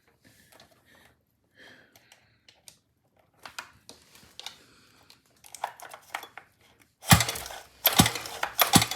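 Metallic clicks and rattles from working the gas scooter's stiff recoil pull-start, with a run of loud clanks about seven seconds in; the engine does not start.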